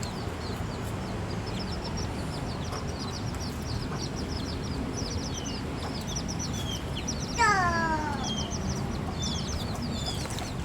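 Many small birds chirping continuously in quick, high cheeps, with one louder call that slides downward about seven and a half seconds in.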